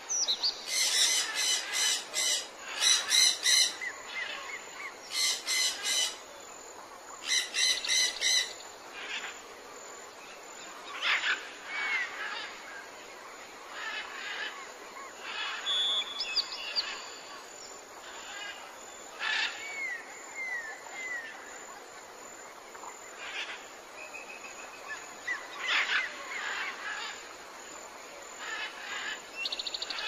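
Birds calling outdoors: three loud bouts of rapid, repeated calls in the first eight seconds or so, then scattered short chirps and whistles from several birds.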